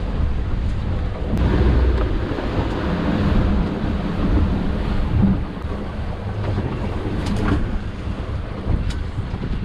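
Wind buffeting the microphone on a small boat at sea, over the wash of waves against the hull, with a few light knocks.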